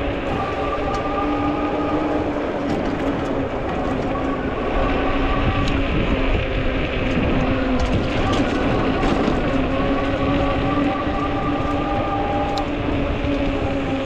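Fat-tire electric bike under way: the hub motor and the wide tyres on pavement give a steady hum with a few overtones, over a heavy rumble of wind on the microphone. The hum fades for a few seconds midway and then comes back.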